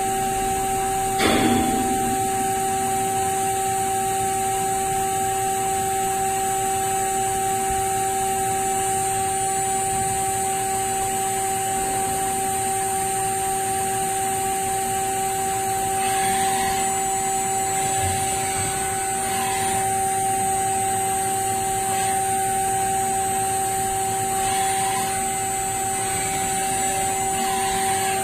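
CNC turn-mill machine running with a steady whine-like hum at one pitch, with a brief knock about a second in.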